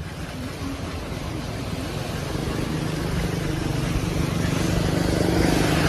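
A vehicle engine running and growing steadily louder as it approaches, over a constant rushing noise of water and traffic on the road.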